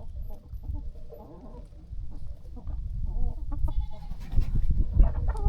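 Chickens clucking in short, scattered calls over a low rumbling noise.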